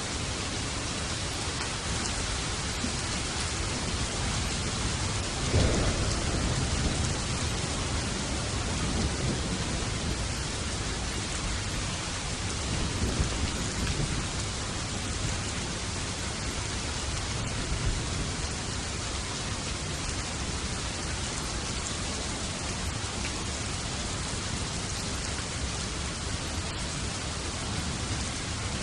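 Steady heavy rain with thunder rumbling, one roll swelling about five and a half seconds in and another around thirteen seconds.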